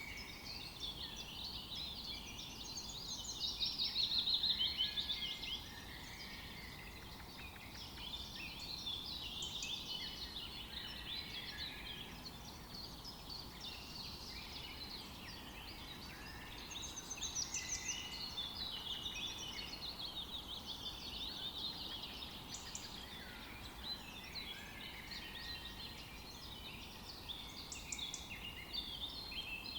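A chorus of songbirds chirping and trilling together, many overlapping calls, with a louder burst about four seconds in.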